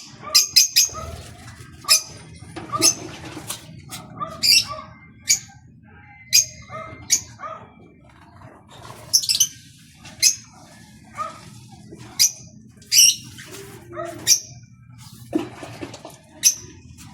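Small birds bathing: short, sharp splashes and wing flutters in water, coming irregularly about once a second.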